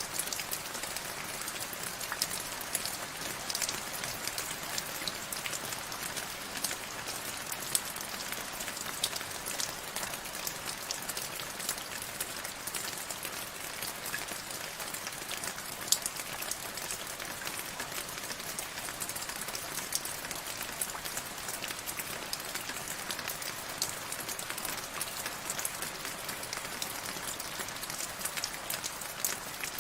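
Steady rain, with a constant hiss and many sharp individual drop impacts on a surface.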